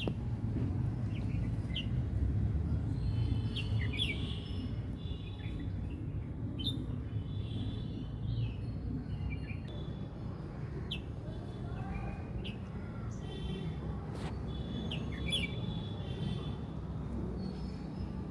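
Small birds chirping: many short, high chirps and brief trills, over a steady low rumble.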